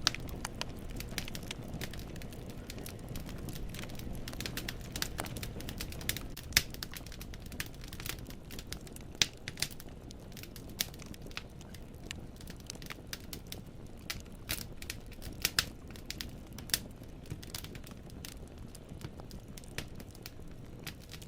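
Wood fire burning in a fireplace: firewood crackling and popping at irregular intervals, with a few louder pops, over the low steady rumble of the flames.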